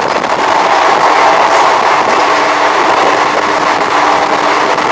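Express passenger train running at speed, its wheels and coaches making a loud, steady rushing rumble on the track, with a faint steady hum underneath.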